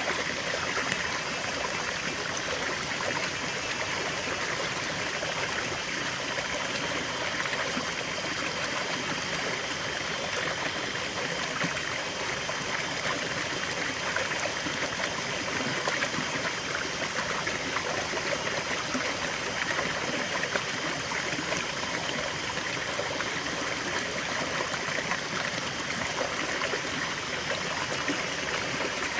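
A small stream of water running and trickling steadily.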